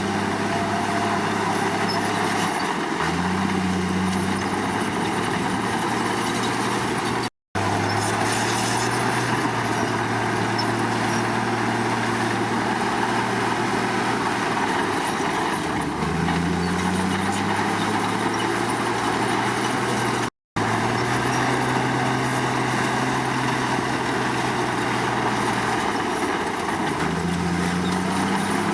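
Komatsu D53 crawler bulldozer's diesel engine running steadily under work, its pitch shifting up and down a few times as the load changes. The sound cuts out for an instant twice.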